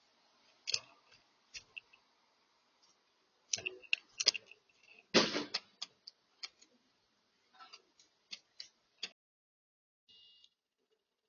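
Irregular sharp taps and clicks of birds pecking and moving about on a bird feeder, with the loudest cluster about five seconds in.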